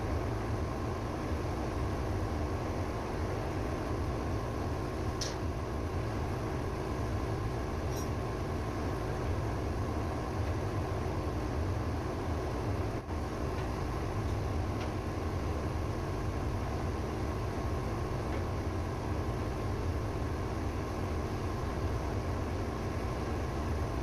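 Ship's auxiliary engine running steadily, a dense low rumble with no change in speed.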